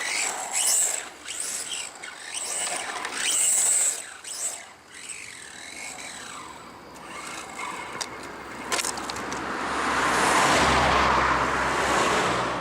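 Electric 1:10-scale RC cars driving: motor whine rising and falling with the throttle, with tyre squeal and scrubbing. From about ten seconds in a louder rush of tyre and motor noise as a car passes close, which stops suddenly near the end.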